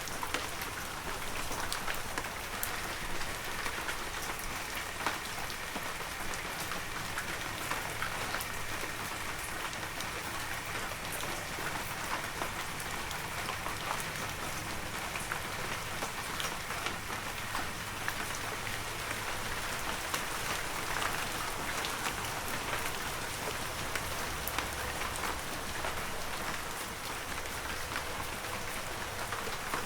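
Heavy rain falling steadily, a dense even hiss with many individual drops striking close by.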